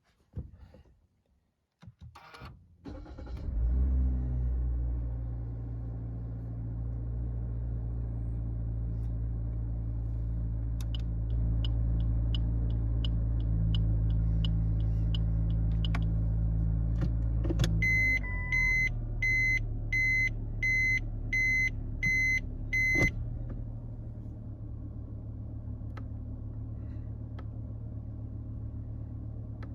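Suzuki Swift's 1.2-litre four-cylinder engine starting about three seconds in, flaring briefly, then idling steadily. Over the idle come the even clicking of the turn signal for about five seconds, then a reverse-gear warning beeper sounding about eight short beeps before the engine idles on alone.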